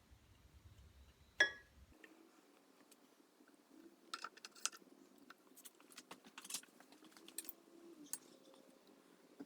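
A single metal clink with a short ring about a second and a half in, then a run of light clicks and scrapes: drill press pulleys and small metal parts being handled and fitted back on during reassembly.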